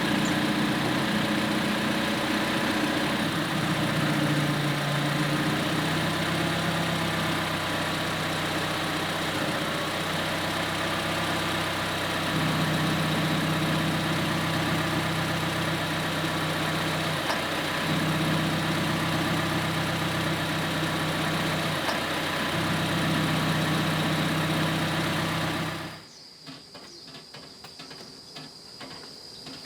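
Restored 1995 Mitsubishi Galant engine idling steadily, its pitch stepping slightly up and down several times. The engine sound cuts off suddenly near the end.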